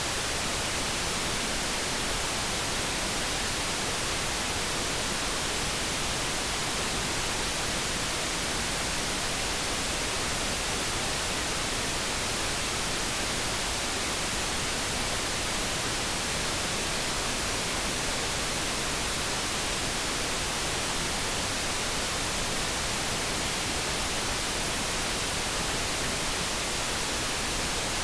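Steady synthetic noise: an even, unbroken hiss with no tones or changes.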